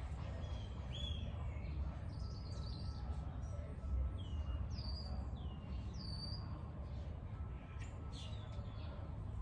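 Birds chirping in short calls, several of them sweeping down in pitch, repeated at irregular intervals over a steady low rumble.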